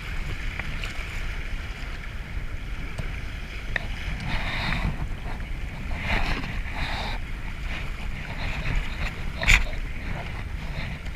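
Moving river water with wind buffeting the microphone, heard from a kayak just through a small rapid. There are a few louder splashy rushes about four and six seconds in, and a single knock near the end.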